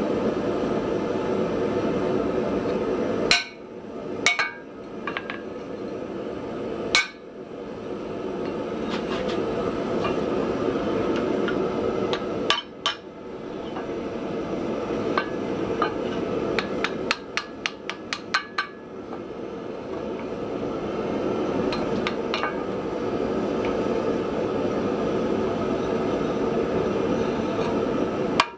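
A hammer strikes metal in scattered single blows, then a quick run of lighter taps, about four a second, a little past the middle. A steady rushing noise runs underneath.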